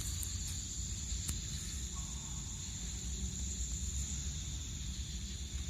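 Steady, high-pitched insect trilling, typical of crickets at night, over a low rumble, with a faint click a little over a second in.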